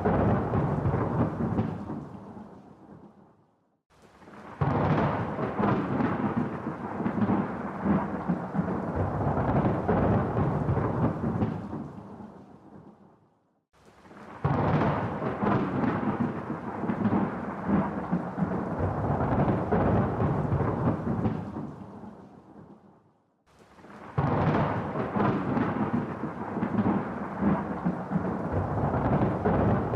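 Rolling thunder rumbling in long peals, each starting suddenly and dying away to near silence over several seconds. Three peals repeat almost identically about every ten seconds, like a looped recording.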